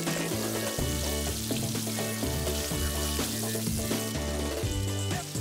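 Flour-coated fish pieces deep-frying in hot oil in a frying pan, a steady sizzle, moved about with metal tongs. Background music with a bass line plays alongside.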